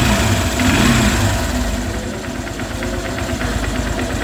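Honda Shine single-cylinder motorcycle engine idling steadily after its cam chain tensioner has been re-tensioned, with a brief rise and fall in pitch in the first second. No timing-chain knock is left.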